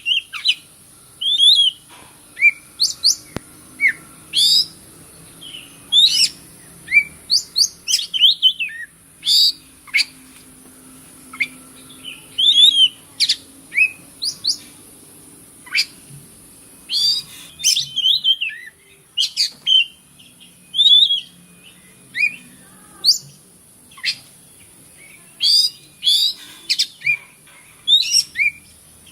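Oriental magpie-robin (kacer) singing: short bursts of sharp, varied whistled notes and quick rising and falling glides, a phrase every second or so, over a steady high hiss.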